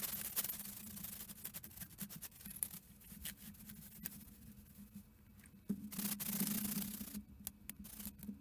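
Rubbing and scraping with many small clicks, the loudest stretch of scraping about six seconds in, over a steady low hum.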